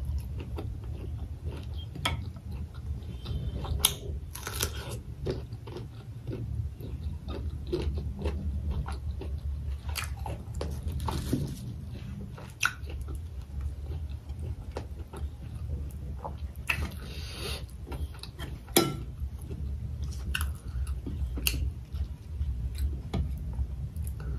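Close-miked chewing and biting of rice, fried pork and fresh lettuce leaves: scattered crisp crunches and wet mouth clicks over a steady low hum.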